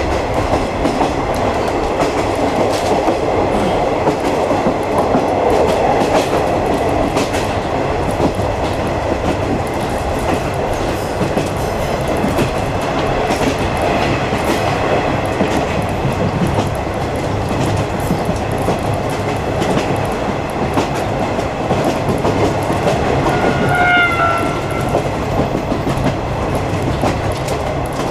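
Running noise heard inside a 50-series passenger coach hauled by a DD51 diesel locomotive: a steady rumble with the clickety-clack of wheels over rail joints. A brief high tone sounds near the end.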